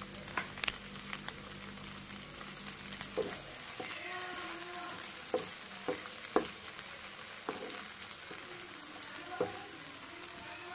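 Onions, green chilies and freshly added chopped tomatoes sizzling in hot oil in a non-stick kadai. A wooden spatula stirs them, knocking and scraping against the pan every second or two.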